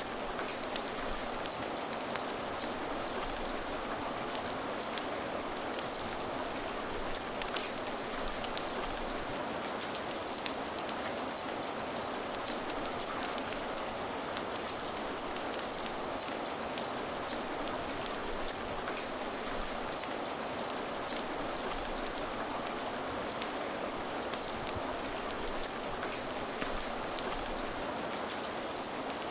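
Steady rain: an even hiss of falling rain with scattered sharp clicks throughout.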